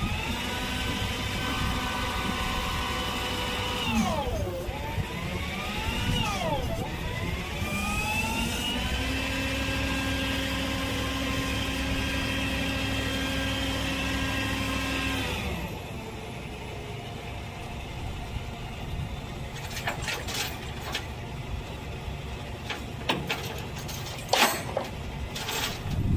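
Truck engine revving up, dropping in pitch as it shifts about four seconds in, climbing again and then holding a steady speed before it cuts off about two-thirds of the way through. Scattered clicks and knocks follow.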